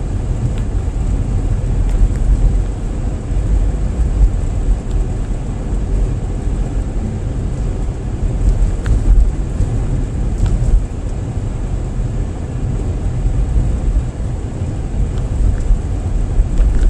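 Road noise heard inside a moving car: a steady low rumble of tyres on the road and the engine running, with a few faint ticks.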